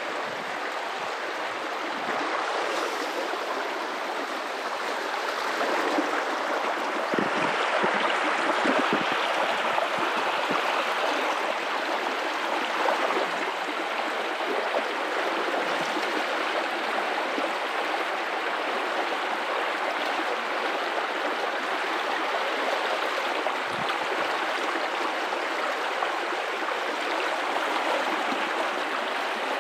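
River water running over rocks, a steady rushing and gurgling, a little stronger for a few seconds near the quarter mark.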